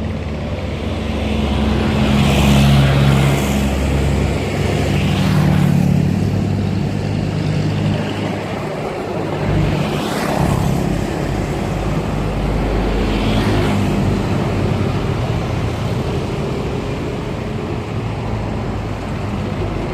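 Motor engines running with a steady low drone, with several swells of rushing noise as if vehicles or vessels pass by.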